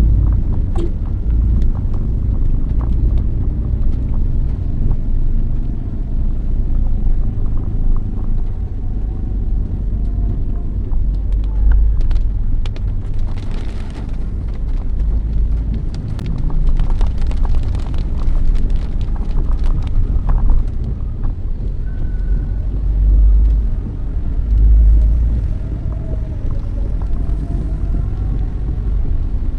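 Steady low rumble of a motor vehicle travelling on the road, with road and traffic noise and a few scattered clicks.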